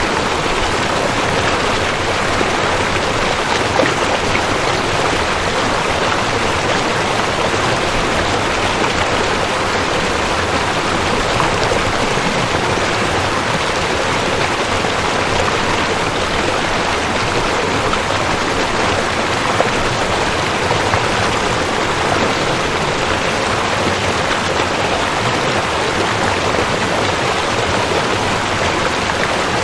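Rushing creek: water running fast over rocks in a steady, dense rush.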